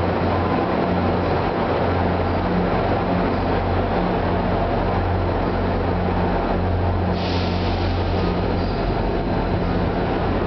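Diesel-hauled commuter train rolling out, its F40PH-2CAT locomotive pushing: a steady low diesel drone over the continuous rumble of the cars and wheels. A short hiss comes about seven seconds in.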